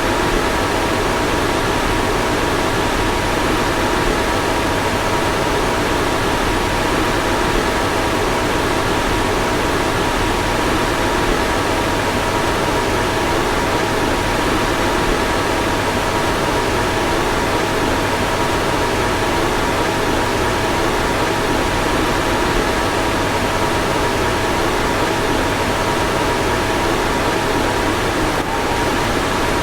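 Car fan running steadily: a constant rush of air with faint steady hum tones in it, and a slight hitch near the end.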